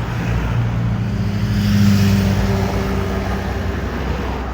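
A motor vehicle driving past close by: its engine hum and tyre noise swell to a peak about two seconds in and then fade, over a steady background of traffic.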